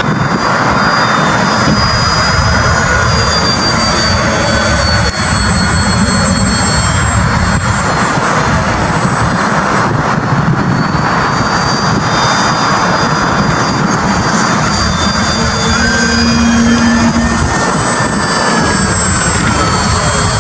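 Radio-controlled model airplane running steadily, a loud engine noise with thin high whining tones that waver slightly in pitch.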